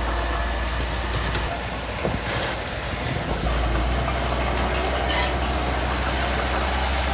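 Heavy diesel engine of earth-moving machinery running steadily. Its low rumble drops away for about two seconds, a second and a half in, then returns, with brief rattles about two and a half and five seconds in.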